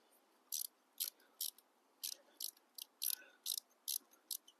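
Ratchet wrench clicking in short, irregular strokes, about two or three a second, as the exhaust nuts are worked loose.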